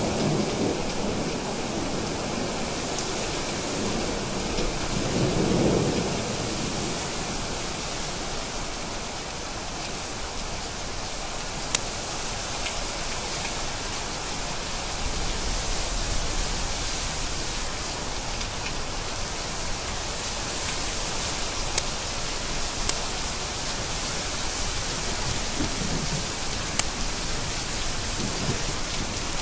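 Steady heavy rain with low rolls of thunder, one swelling about five seconds in and a deeper rumble around the middle. A few sharp ticks of drops stand out over the rain.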